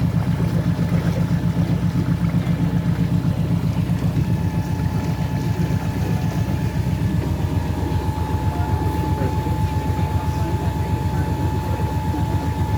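Cruise boat's engine running steadily, heard on board as a fast, even low throb.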